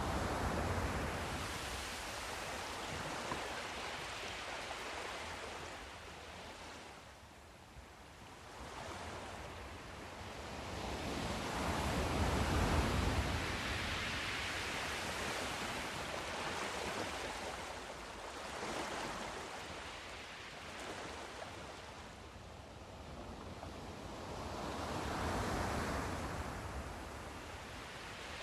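Sea surf: waves breaking and washing up the shore, swelling and ebbing every several seconds, with three larger breakers near the start, about halfway and near the end.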